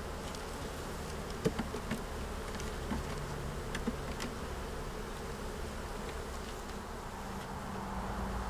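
Honeybees buzzing steadily around an open hive, with a few light knocks of wooden frames and equipment being handled.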